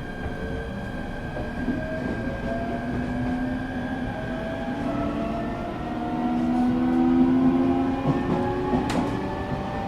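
Electric train's motors whining under the rumble of the wheels, the whine rising steadily in pitch as the train accelerates. A single sharp click sounds near the end.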